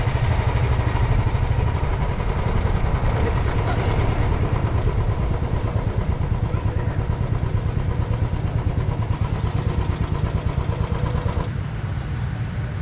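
Motorcycle engine running steadily while being ridden, its fast exhaust pulses dominating the low end.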